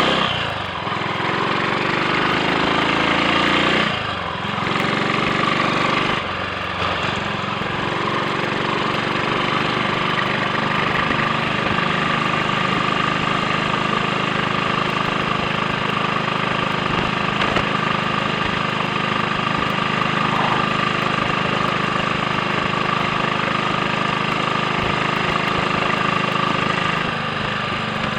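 Triumph Sports Cub's single-cylinder four-stroke engine pulling away. It rises in pitch and drops back at each of about three gear changes in the first seven seconds, then runs steadily at a cruising speed.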